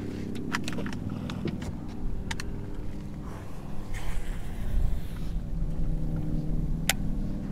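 A motor running steadily with a low hum, with a few light clicks over it.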